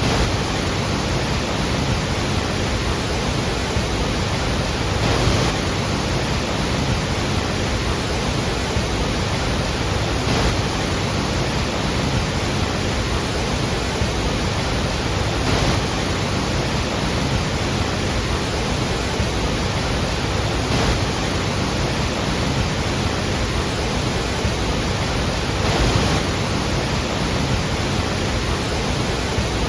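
Falling water at Iguazu Falls: a steady, dense rush, with a faint swell about every five seconds.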